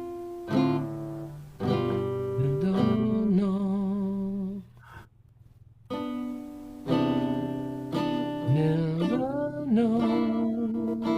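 Acoustic guitar playing sustained chords, with a note gliding up in pitch about two seconds in and again near nine seconds; a short pause near the middle.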